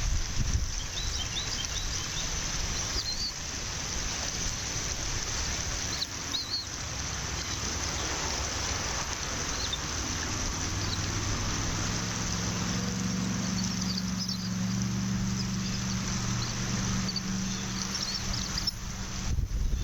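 Steady wind rushing on an outdoor microphone, with a few faint, short, high bird chirps now and then. About halfway through, a low steady hum comes in and drops out near the end.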